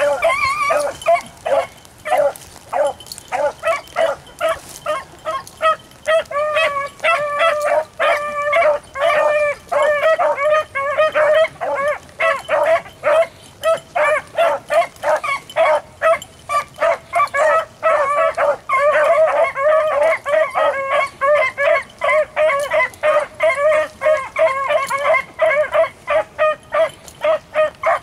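A pack of beagles baying in full cry on a rabbit's track: a rapid, continuous run of short pitched barks from several dogs overlapping.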